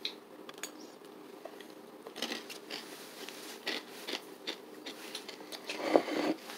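A person biting and chewing a dry, crunchy Quaker Cinnamon Oatmeal Squares cereal square: a run of short, irregular crunches starting about two seconds in, with a louder one near the end.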